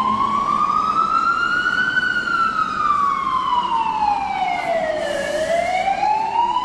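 A siren wailing: its pitch rises for about two seconds, falls for about three, then rises again near the end.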